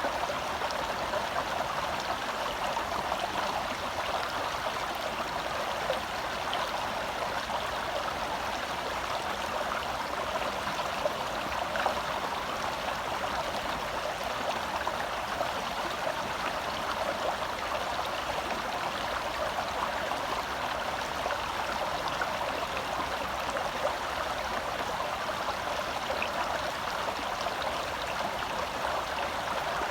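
Shallow forest stream flowing steadily over rocks: a constant rush of water with small splashes and gurgles.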